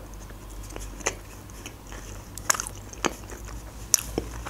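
A person biting into and chewing a soft sesame-bun burger, with a few sharp wet mouth clicks, the loudest about two and a half and four seconds in.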